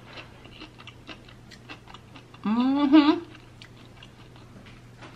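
Mouth sounds of someone chewing food, a run of small wet clicks and smacks. About halfway through comes a brief, loud, wavering hum of a voice.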